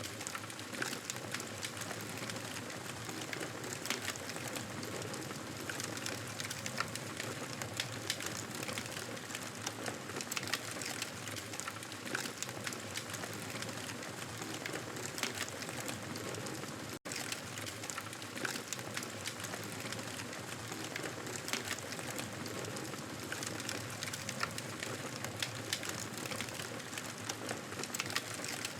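Wood fire crackling steadily, with a dense scatter of small pops and snaps over a soft hiss; the sound drops out for a split second about seventeen seconds in.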